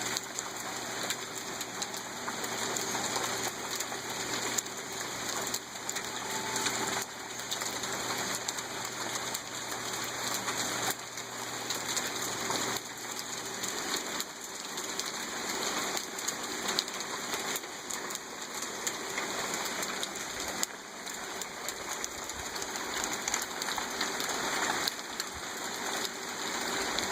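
Hail pattering steadily on surfaces, a dense spray of small ticks. A faint low hum underneath stops about halfway through.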